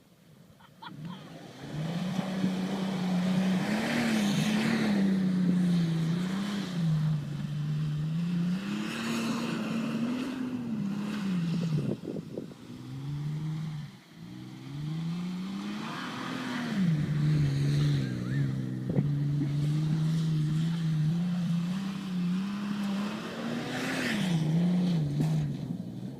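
4x4 engine revving up and down over and over as the vehicle is driven off-road, its pitch rising and falling every couple of seconds, with a hiss that swells at the peaks. Twice near the middle it briefly drops away before picking up again.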